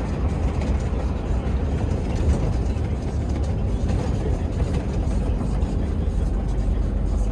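Heavy truck's engine and road noise heard from inside the cab, a steady low rumble while driving.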